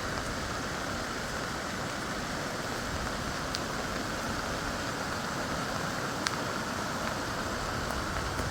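Heavy rain falling steadily, an even hiss with a couple of sharp ticks of drops striking something hard.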